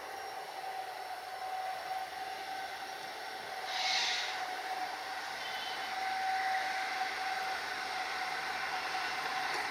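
Train hauled by a WDG-4D diesel locomotive running, a steady noise with a constant whine through it. A short hiss comes about four seconds in.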